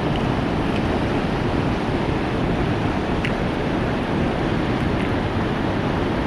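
Steady rushing outdoor noise with a few faint ticks about a second, three seconds and five seconds in.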